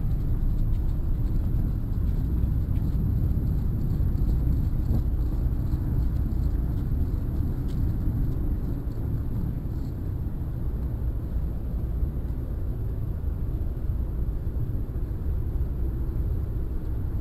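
Steady low rumble of wind on the microphone outdoors, with a few faint light clicks and rustles from walking.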